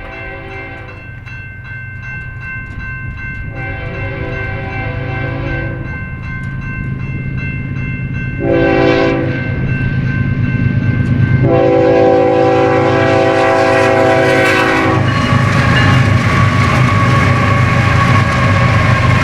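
BNSF freight locomotive sounding its multi-chime air horn in the long-long-short-long grade-crossing pattern as it approaches, its diesel drone growing louder throughout. After the last long blast the locomotive reaches the microphone and the rumble and rail noise of the passing train take over.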